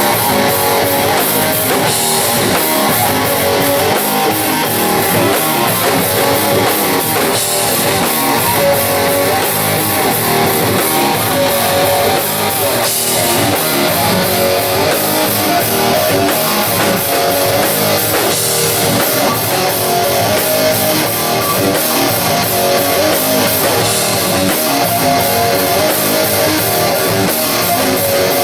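Live rock band playing loudly, guitar over a drum kit.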